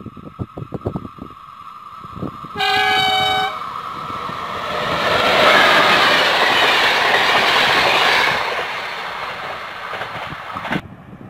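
Passenger train sounding one horn blast of about a second as it approaches, then passing close at speed, its wheels and coaches rushing by loudly; the sound cuts off suddenly near the end.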